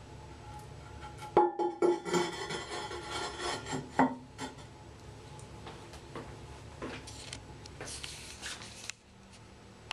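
Porcelain toilet tank lid being set back on the tank: a few hard clinks that ring briefly, with some scraping between them.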